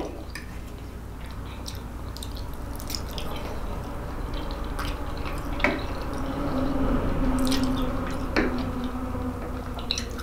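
Close-up wet chewing and lip-smacking of a mouthful of food, with scattered sharp little clicks and smacks.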